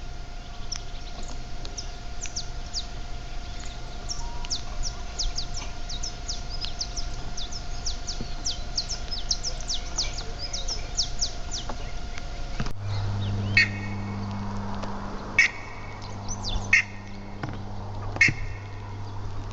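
Backyard birds chirping: many quick, high, falling chirps in rapid succession. About 13 s in the sound changes to four louder, separate bird calls roughly a second and a half apart.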